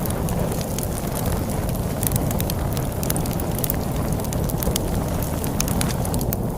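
Wood fire crackling, with irregular sharp pops and snaps, over a steady low rush of storm wind.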